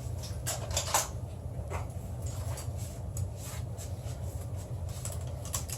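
Light handling noise over a steady low hum: scattered faint clicks and rustles as airsoft guns are swapped over, with no shots fired.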